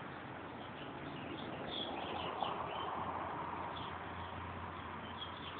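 Small birds chirping now and then over a steady outdoor background noise that grows a little louder around the middle.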